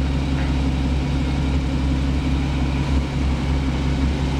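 2015 Porsche Cayman GTS's flat-six engine idling steadily.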